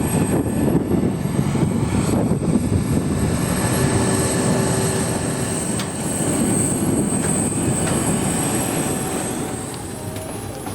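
Boeing 717's rear-mounted Rolls-Royce BR715 turbofan engines running, heard inside the cabin: a steady rumble with a thin high whine, easing slightly near the end.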